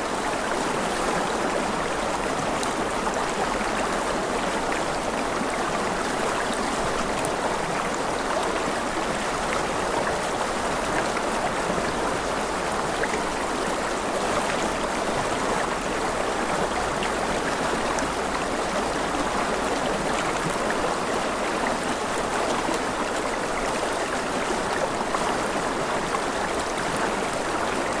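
Running water from a flowing stream: an even, unbroken hiss with faint scattered ticks of droplets.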